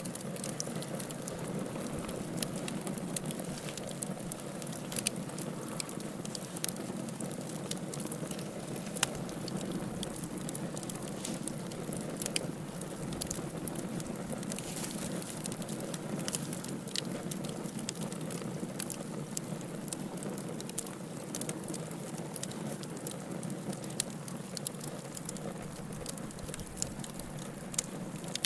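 Wood fire crackling in a fireplace: a steady low rush of flames with frequent sharp crackles and a few louder pops.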